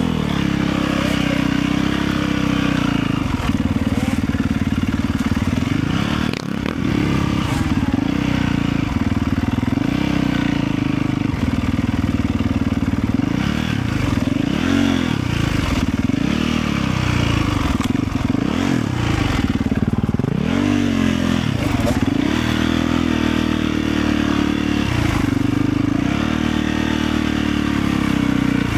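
Motorcycle engine running under way, its engine speed rising and falling again and again as the throttle is opened and closed.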